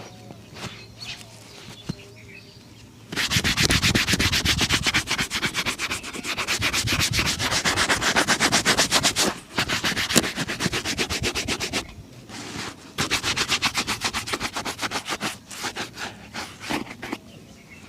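Rapid, even back-and-forth polishing strokes on a leather shoe, starting about three seconds in, pausing briefly, then resuming before stopping near the end.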